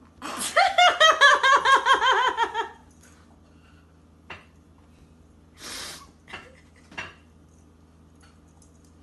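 A person laughing: a rapid, high-pitched giggle lasting about two and a half seconds, followed by a few faint knocks.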